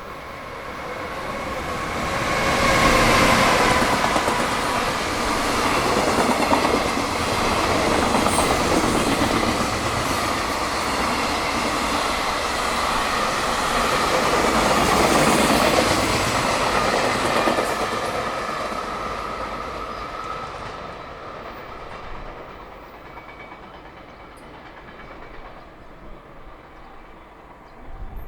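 JR Freight EF210 electric locomotive hauling a freight train through the station at speed. The locomotive's motor whine falls in pitch as it passes about three seconds in. The wagons' wheels then clatter on the rails for about fifteen seconds, fading away around twenty seconds in.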